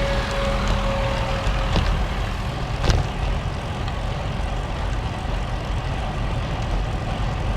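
Wind buffeting an action camera's microphone on a moving road bike: a steady low rumble, with a single sharp click about three seconds in.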